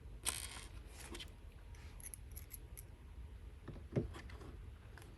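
Faint handling sounds of desk hardware being positioned: a short rustle, a few small clicks, and a light knock about four seconds in.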